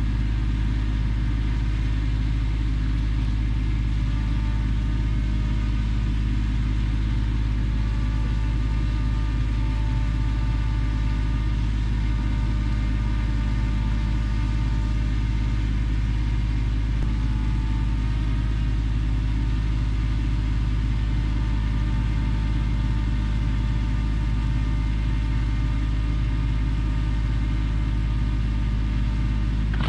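Kubota tractor's diesel engine running at a steady speed, a constant low drone that doesn't change.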